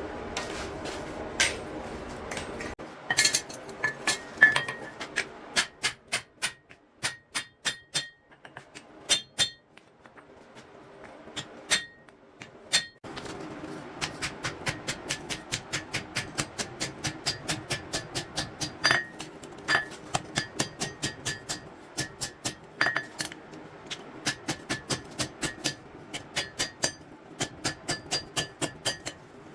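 Hand hammer forging steel on an anvil, each blow ringing. Scattered, irregular blows at first, then after a short pause a steady run of about three blows a second.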